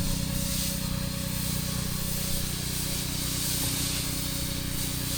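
Pressure washer spraying water with a steady hiss over the constant hum of its engine running.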